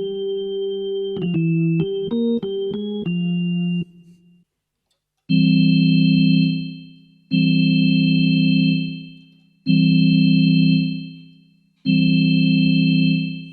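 Organ tone on a Casio AiX-engine home keyboard. A quick run of single notes is played, then after a short pause four held chords, each fading away after it is released.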